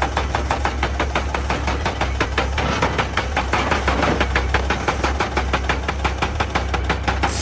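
Excavator-mounted hydraulic rock breaker hammering rock: a rapid, steady train of blows, about eight to ten a second, over the excavator's diesel engine running.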